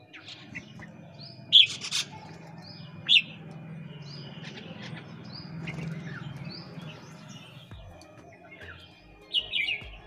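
Small birds chirping in short, repeated falling notes, with a few louder sharp sounds about one and a half, two and three seconds in and again near the end.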